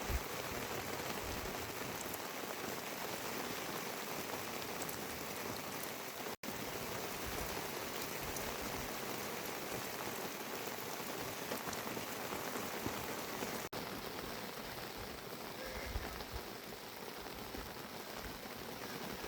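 Steady rain falling, an even hiss with no break in its pattern. It cuts out for an instant twice, about six and about fourteen seconds in.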